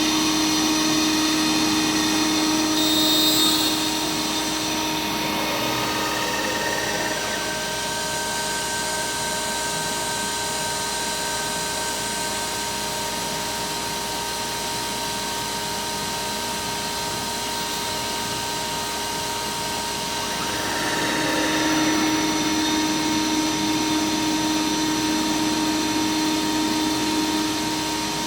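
CNC router spindle running with a steady whine while milling aluminum composite material. The cutting sound is louder at first, eases off about four seconds in, and grows louder again about two-thirds of the way through as the cutting load changes.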